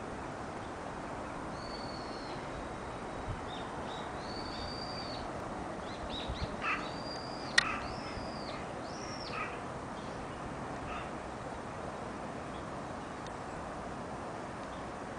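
A bird sings a run of about six high, clear whistled notes, each rising then falling, between about two and nine and a half seconds in, over a steady distant hum. There is a sharp click midway, the loudest moment.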